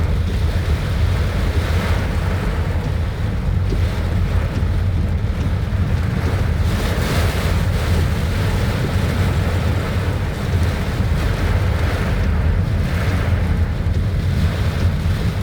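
Strong wind rumbling on the microphone during heavy rain, a steady low rumble under a rain hiss that swells now and then.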